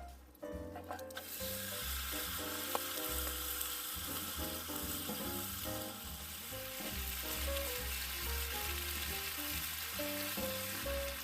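Steak sizzling as it cooks over a campfire; the sizzle sets in about a second in and holds steady. Background music plays underneath.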